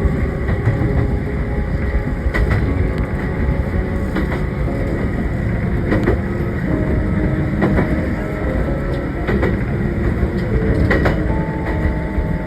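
A train running along the track, heard from inside the carriage: a steady low rumble with faint whining tones and scattered sharp clicks from the wheels and rails.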